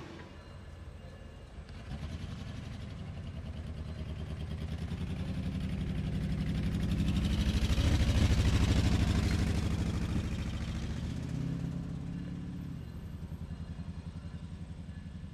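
Diesel engine of an EMD SD-M locomotive, rebuilt from an SD9, running with a low pulsing drone. It swells to its loudest about eight seconds in and then fades, as when the locomotive passes close by.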